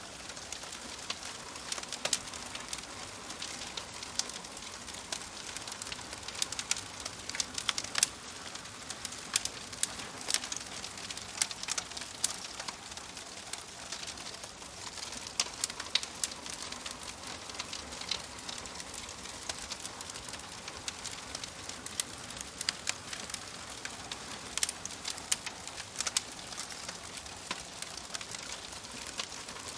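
Wood fire crackling: a steady soft hiss with frequent irregular sharp pops and snaps.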